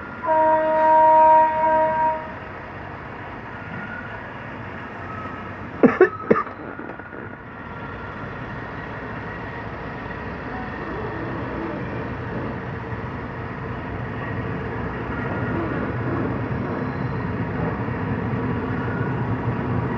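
Diesel passenger train arriving: its horn sounds once for about two seconds, then comes the rumble of the train rolling in, growing slowly louder. About six seconds in there is a quick cluster of three sharp bangs.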